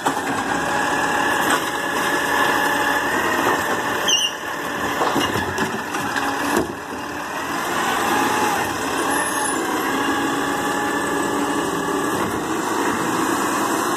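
Garbage truck engine running steadily, with a faint wavering high whine over it and a few short clicks.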